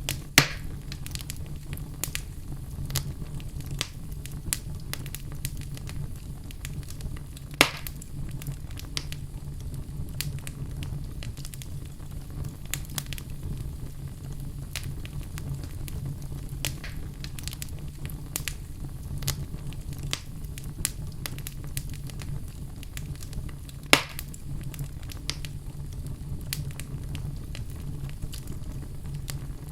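Wood fire burning in a fireplace, a steady low rumble of flames with frequent small crackles and three louder pops spread through.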